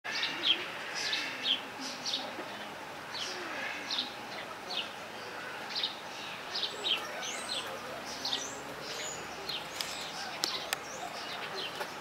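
Birds chirping: a steady run of short, high, downward chirps, about two a second, some of them higher and thinner.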